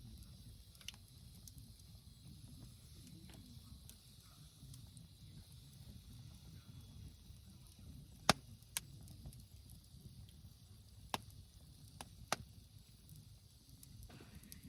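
Wood fire burning in a Coleman Fire Disk fire pit: a faint steady low rumble with about five sharp crackling pops in the second half, the loudest a little past halfway.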